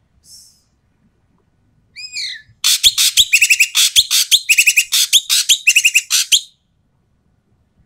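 Ekek keling bird calling loud and harsh: a descending call, then a rapid chattering series of rough calls that stops about two-thirds of the way through.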